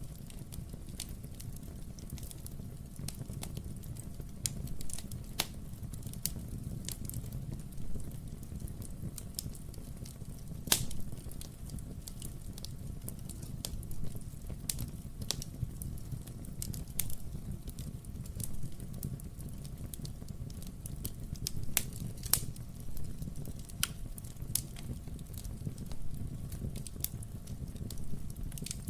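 Wood fire burning in a fireplace: a steady low rumble of flame under irregular crackles and sharp pops from the burning logs, a few of them louder, about 11 and 22 seconds in.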